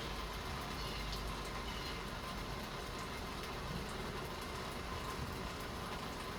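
Steady hiss of light rain falling, with faint fine ticks of drops throughout.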